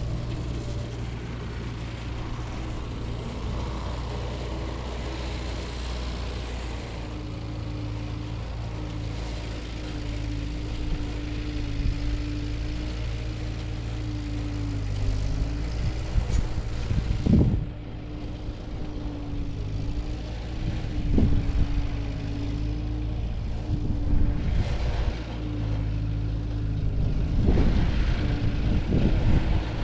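Ford N-series tractor's four-cylinder flathead engine running steadily under load, with several louder surges and knocks in the second half.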